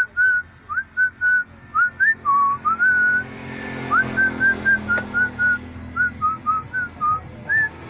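A person whistling a lively tune with the lips: a quick run of short, clear notes, many opening with an upward slide.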